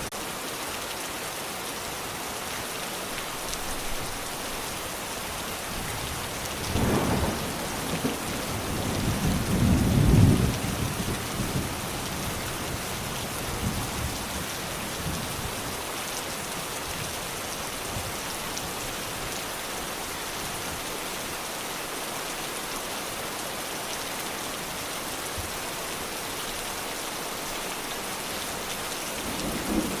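Steady heavy rain hissing, with rolls of thunder rumbling twice, about seven seconds in and again around ten seconds in, the second the louder.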